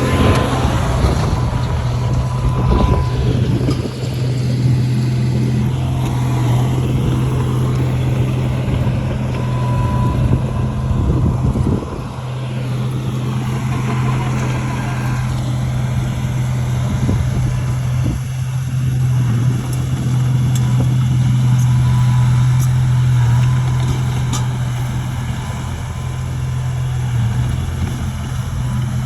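Heavy earthmoving machine's diesel engine running steadily, a deep continuous drone that dips slightly in level now and then.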